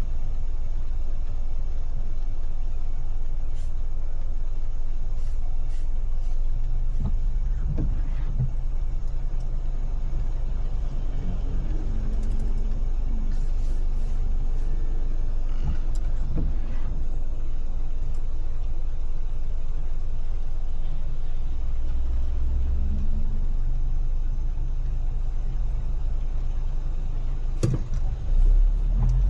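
Car driving on a rain-wet road: a steady low rumble of engine and tyres, with scattered light ticks and a sharper knock near the end.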